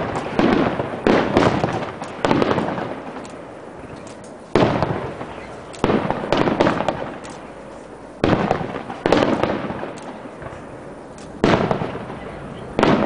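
Aerial firework shells bursting in a display: about a dozen sharp bangs, some in quick pairs and clusters a second or two apart, each trailing off in a rolling echo.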